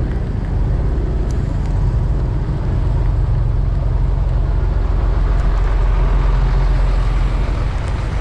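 A vehicle's engine running steadily with a low rumble and road and wind noise, as heard while riding along.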